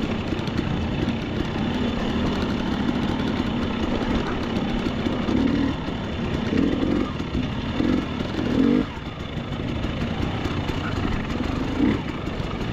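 Dirt bike engine running under changing throttle, with several short throttle bursts from about six to nine seconds in; the loudest comes just before nine seconds and then it eases off.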